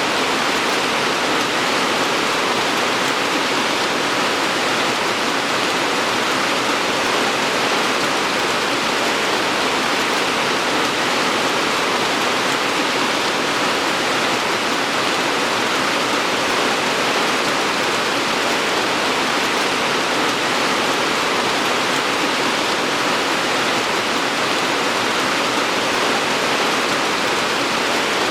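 Steady rain, a dense even hiss of falling drops with no single drops standing out.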